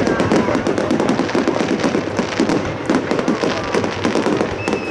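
Fireworks display: a dense, continuous crackling and popping from many crackle stars and fountains going off at once. A thin whistle comes in near the end.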